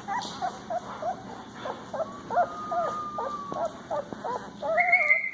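Very young puppies whimpering and squeaking: a string of short, high-pitched cries that bend up and down in pitch, with a longer, louder whine near the end.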